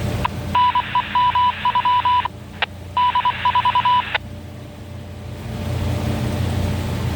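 Two runs of short, high electronic beeps with uneven spacing, coming over a fire-department radio scanner. Under them a low rumble drops away, then returns near the end.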